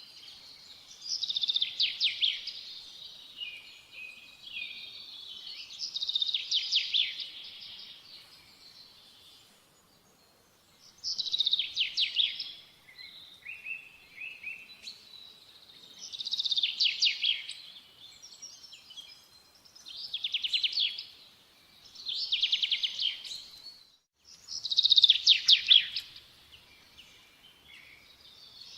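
A songbird singing, repeating a phrase of rapid high trills every few seconds, about seven phrases in all, with softer notes in between.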